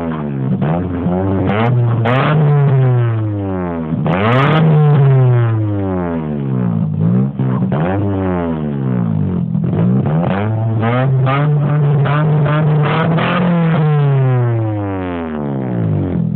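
Mazda 626 engine through a tuned aftermarket exhaust, revved again and again. The pitch climbs and falls in a string of quick blips, with a longer rev held steady near the middle.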